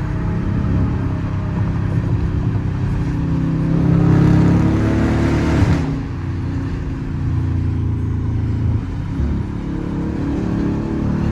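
Straight-piped, catless Dodge Charger R/T HEMI V8 exhaust under way: the revs climb and get louder about four seconds in, drop off sharply near six seconds, then the engine pulls again briefly before settling.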